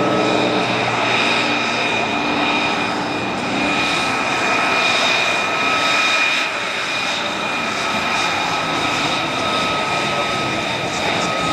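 Aircraft engine running steadily, with a high-pitched whine of several held tones over a rushing hiss.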